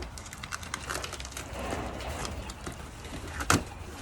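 Racing pigeons cooing, with scattered scratching and clicks, and one sharp knock about three and a half seconds in.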